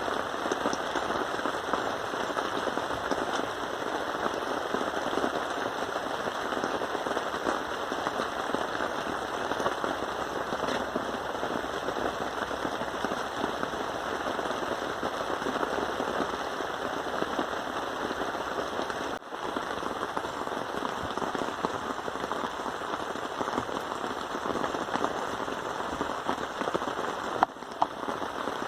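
Steady rain pattering close by, a dense crackle of countless small drop impacts, with two brief breaks, about two-thirds of the way through and near the end.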